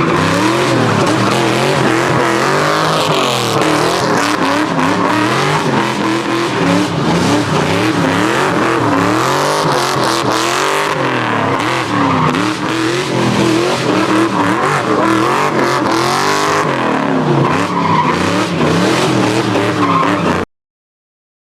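A car's V8 engine revving up and falling back again and again, with a tyre-squeal-like hiss over it. The sound cuts off abruptly near the end.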